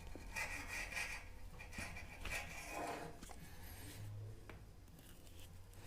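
Plastic pipe and fitting rubbing and scraping against the heated sockets of a pipe-fusion welding iron as they are pushed on to melt for a socket weld, a few irregular rubs in the first three seconds.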